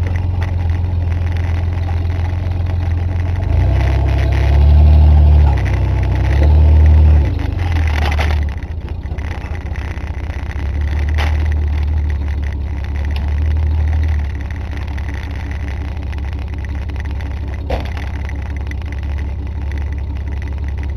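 1985 Chevy S10 pickup's engine under load on a steep climb. It revs up twice, about four and six seconds in, then settles to a steadier, lower run.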